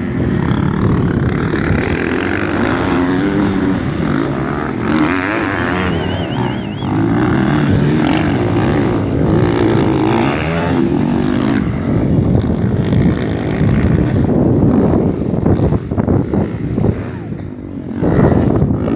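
Motorcycle engines running and revving at a race, their pitch rising and falling. From about halfway through the sound turns rougher and noisier.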